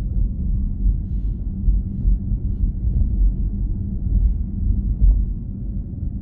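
Steady low road and tyre rumble inside a Tesla Model S while it is driving, with no engine sound.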